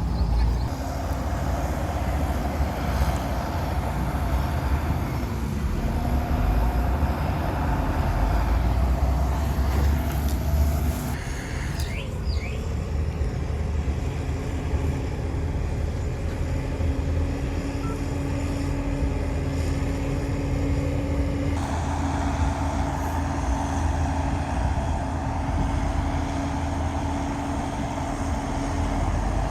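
Diesel engines of heavy earthmoving machinery running steadily with a low rumble. The sound changes abruptly about eleven seconds in and again a little past twenty seconds.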